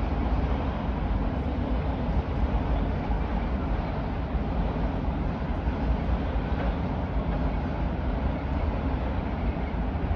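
Long freight train of autorack cars rolling around the curve at a distance, a steady rumble of wheels on rail, mixed with wind buffeting the microphone.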